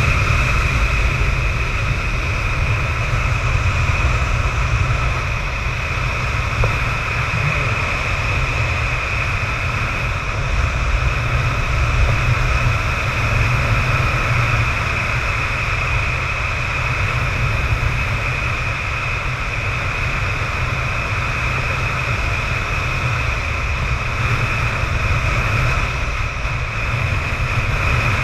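Strong wind buffeting the camera microphone: a heavy, steady rumble with a constant high whistle over it.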